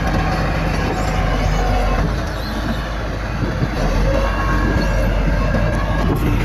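Heavy diesel earthmoving machinery running steadily with a deep engine rumble and hum, easing slightly about two seconds in before picking up again.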